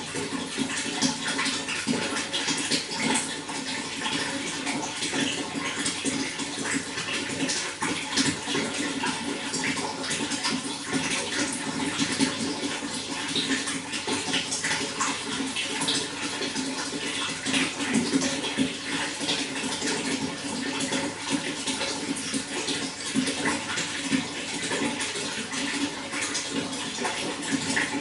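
Running water splashing and gurgling steadily, with many small splashes.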